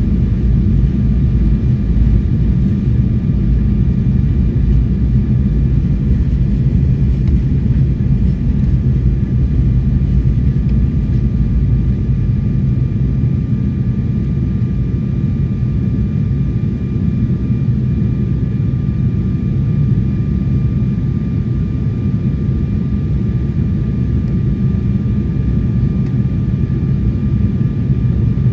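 Jet airliner cabin noise on descent: a steady low roar with a few faint, steady high tones from the engines running through it.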